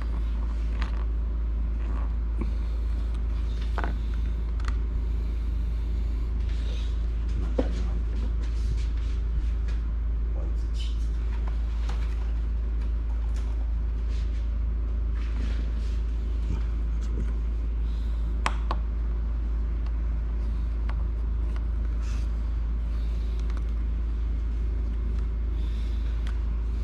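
A steady low hum with a row of fainter steady hum tones above it, loudest throughout, over scattered faint clicks and ticks of a small screwdriver working the screws and plastic shell of a Nintendo Switch console.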